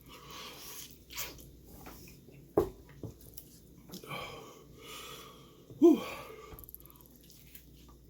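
A man chewing and breathing hard through his mouth, hissing air in and out against the burn of extremely spicy chicken. There is a sharp click about two and a half seconds in, and a loud "whew" near the end.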